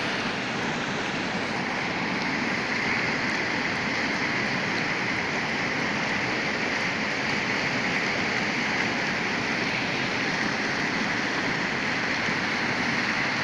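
Waterfall: water falling and rushing in a steady, even roar-like hiss that does not change.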